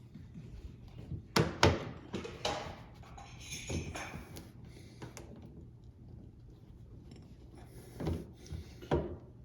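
Scattered knocks and clatter of metal parts and tools being handled while working on a washing machine. There are two sharp taps about a second and a half in, and two more near the end.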